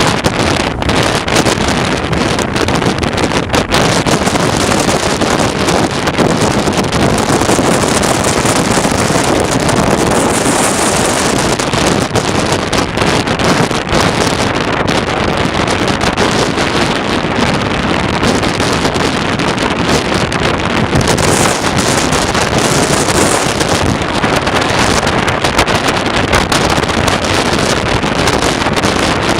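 Strong wind blowing over the microphone: a loud, steady rush of noise that keeps up throughout with small swells.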